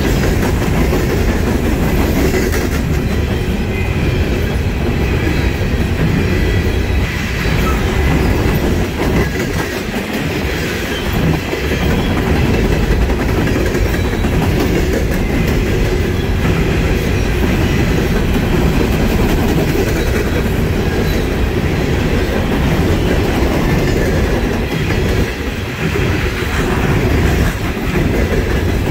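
Coal hopper cars of a long freight train rolling past, their wheels clattering steadily over the rail joints, with a faint high squeal from the wheels.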